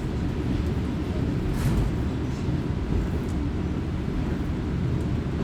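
Diesel railcar running along the line, heard from inside the car: a steady low rumble of engine and wheels on rail, with a brief sharper hiss or clatter about one and a half seconds in.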